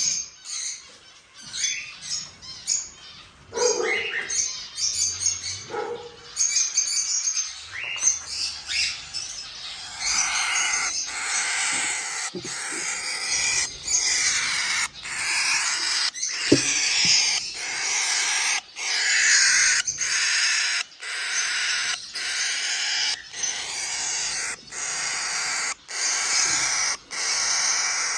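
Many birds calling and chirping together, scattered at first and then a dense, continuous chatter from about ten seconds in.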